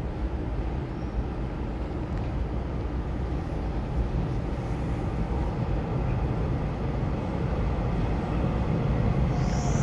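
Low rumble of an approaching EMU3000 electric express train echoing in the underground station, slowly growing louder, with a high hiss coming in near the end as it nears the platform.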